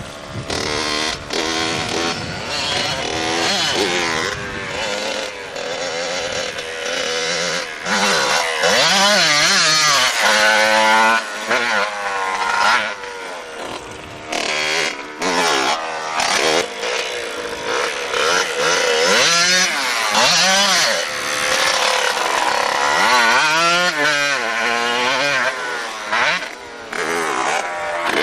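High-revving motorcycle engines climbing and falling in pitch again and again as they rev through the gears and pass by.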